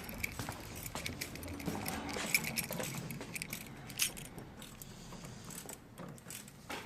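Light metallic clinks and rattles from hand tools and a hose clamp being handled and tightened on a vacuum hose, with a few sharper clicks, the loudest about four seconds in.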